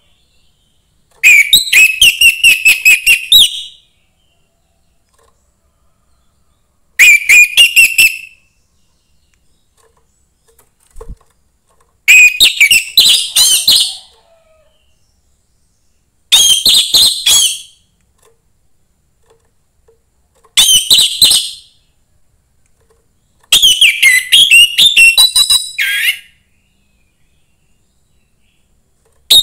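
Young wild orange-headed thrush singing: six separate phrases, each a rapid run of varied whistled notes lasting one to two and a half seconds, with silent pauses between them.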